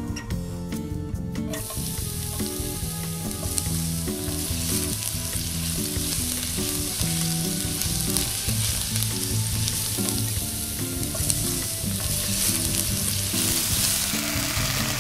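Blended shallot, garlic and tomato spice paste sizzling as it fries in hot oil in a wok, stirred with a wooden spatula. The sizzle starts about a second and a half in and keeps going steadily.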